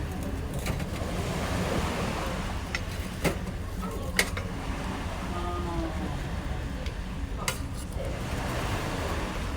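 Wood fire crackling, with a handful of sharp pops scattered through, over a steady low rumble of wind on the microphone.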